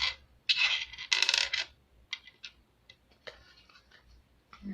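Hands handling small plastic pieces of a toy mini-fridge set: two scraping, rustling bursts within the first two seconds, then a few light clicks and taps.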